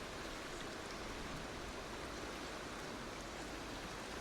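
Fast-flowing stream water rushing steadily, an even wash of noise.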